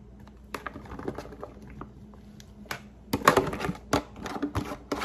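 Mushrooms tipped into a pan of chicken in cream sauce: a run of small taps and clatters, a few at first, then a dense, louder cluster a little past three seconds, with a few more knocks after.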